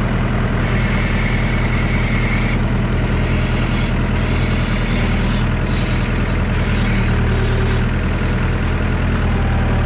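Massey Ferguson 3165 backhoe tractor's diesel engine running steadily under heavy load as it works to free itself from deep mud. About a second in there is a high whine lasting about two seconds, and patches of hiss come and go through the middle seconds.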